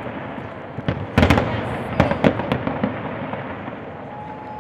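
Aerial fireworks display shells exploding: a run of sharp bangs during the first three seconds, the loudest about a second in, then dying down to a fainter rumble.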